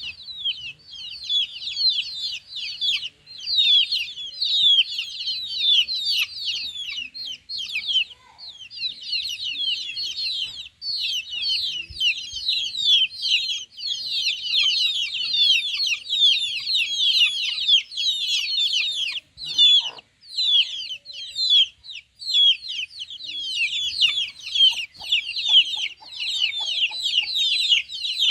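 Chicken chicks peeping continuously: many overlapping high chirps that fall in pitch, with a couple of brief lulls.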